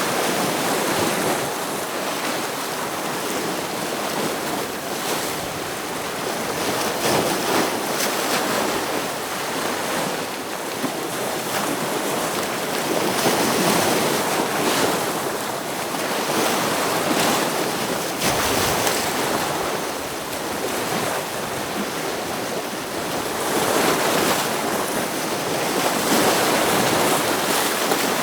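Ocean waves breaking against rocks: a continuous rushing wash of surf that swells and eases every few seconds.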